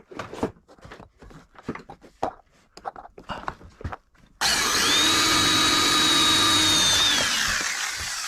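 Power drill starting abruptly about four seconds in and running at a steady high whine for a couple of seconds, then winding down as the trigger is released. Before it come scattered light knocks and clicks of hands working on ceiling panels.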